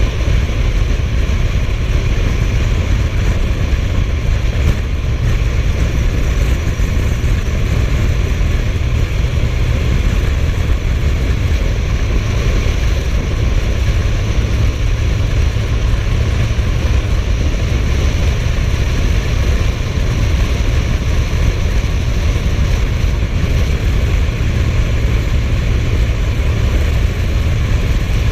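Suzuki GSF1250S Bandit motorcycle, an inline-four, running at a steady cruising speed under rushing wind noise. It is loud and even throughout, with no rise or fall in engine pitch.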